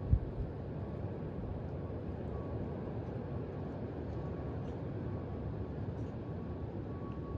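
Steady wind blowing, its noise strongest in the low end, with a loud low thump of a gust hitting the microphone right at the start. Faint wind-chime tones ring now and then in the background.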